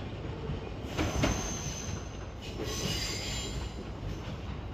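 E131-1000 series electric train rolling past: a steady low rumble with a couple of wheel clacks over rail joints about a second in, and thin, high-pitched wheel squeal around the middle.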